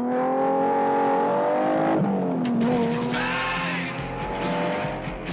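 Sports car engine revving hard under acceleration, its pitch climbing steadily, dropping sharply at a gear change about two seconds in, then climbing again. Rock theme music with drum hits comes in over it a little under three seconds in.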